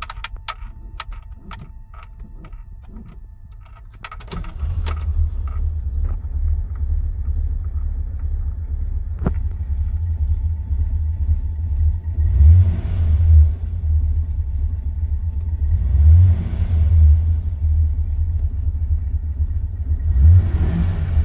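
Alfa Romeo Montreal's V8 cold-starting. Keys jangle and click for the first few seconds, the engine catches about four seconds in and settles into a steady low idle, and it is blipped three times, rising and falling in pitch each time.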